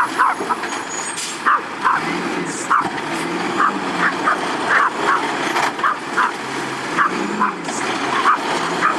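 Autocar garbage truck engine running and revving, its pitch rising and falling. Repeated short, sharp higher-pitched sounds come at irregular intervals over it, about two a second.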